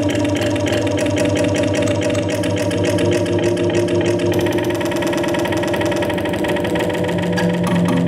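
Live harsh noise from DIY electronic circuits: a loud, steady drone of several stacked buzzing tones chopped by a fast pulsing flutter. The upper hiss thickens about halfway through, and new lower tones come in near the end.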